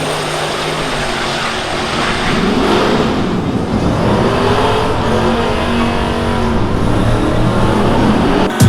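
Drag-racing trucks' engines running hard, a loud, dense engine noise with no clear single pitch. A sharp bang comes near the end.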